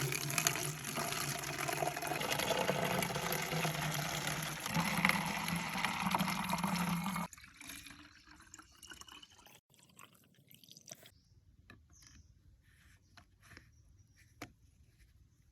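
Water pouring into a container for about seven seconds, then stopping suddenly, followed by faint drips and small knocks.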